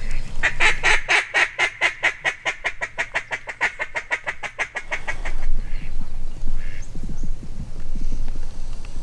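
A long, rapid run of mallard-style quacks, about six a second for nearly five seconds, loudest at the start and tapering off. Lower, irregular rustling noises follow.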